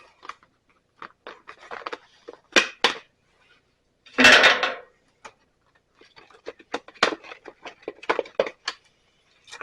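Steel bandsaw blade and its packaging being handled: scattered light clicks and metallic clinks, with a longer rustle about four seconds in.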